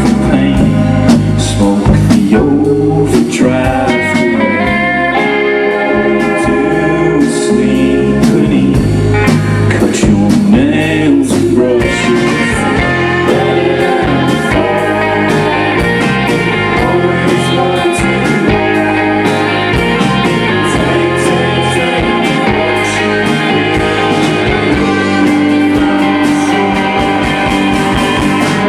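Rock band playing live with guitars and a sung vocal line, loud and continuous, captured on a camcorder's microphone.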